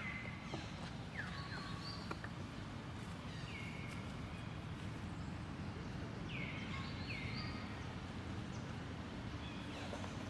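Animal calls: short high-pitched cries that slide down in pitch and then hold briefly, about five or six of them, some in quick pairs, over a steady low rumble.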